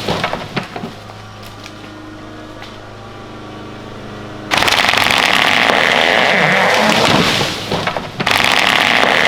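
Gas chainsaw cutting during tree felling. It drops from full throttle to a steady idle with a few sharp cracks, revs back to full throttle about four and a half seconds in, and dips briefly near the end before opening up again.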